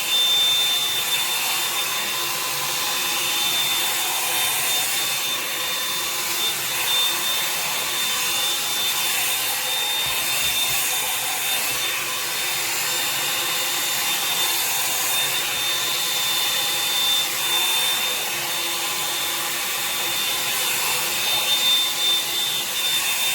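Revlon One-Step hair dryer brush running steadily, blowing air with a thin high whine over the rush of air, while it is worked through wet hair.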